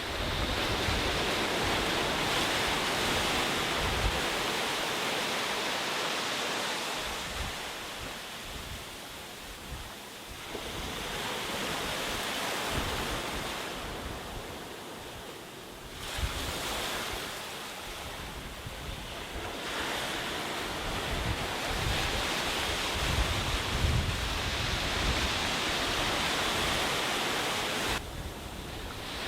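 Sea waves breaking and washing up a sandy beach, swelling and ebbing in long surges several seconds apart, with low gusts of wind buffeting the microphone.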